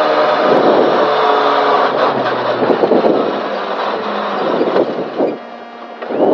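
Honda Civic rally car's engine and road noise inside the cabin, with the engine pitch stepping down as the car slows after the stage finish. It gets clearly quieter about five seconds in.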